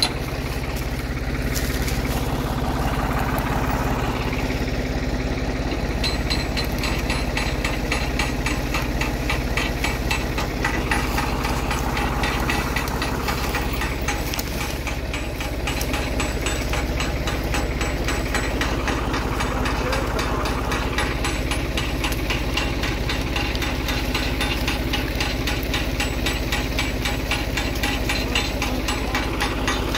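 New Holland TD65 tractor's diesel engine running steadily, with an even, rhythmic knock.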